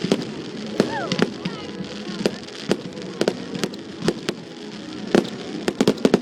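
Fireworks display: a string of sharp bangs and cracks from bursting shells, with a couple of falling whistles about a second in and a quick cluster of bangs near the end.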